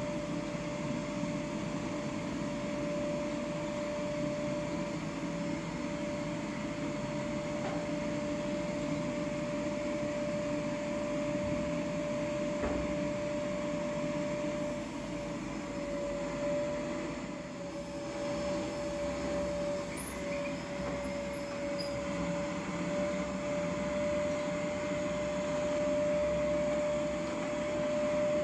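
A steady mechanical hum with a constant mid-pitched whine running through it.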